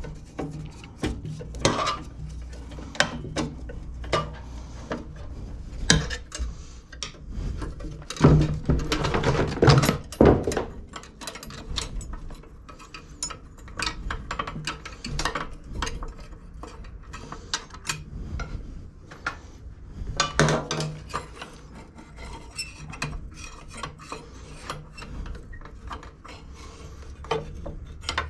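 Irregular metal clinks, knocks and scraping of hand tools and parts while a lawn mower's front height adjuster is worked on, busiest about a third of the way in, over a low steady hum.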